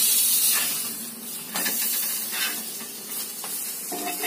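Stuffed chapathi frying in oil on a hot tawa, sizzling steadily, loudest in the first second, with a few short scrapes of a metal spatula against the pan.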